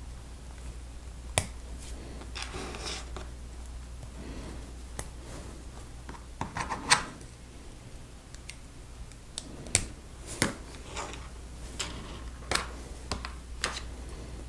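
Lego pieces clicking and snapping together by hand, with scattered irregular sharp clicks and small plastic rattles, the loudest about a third and two thirds of the way in.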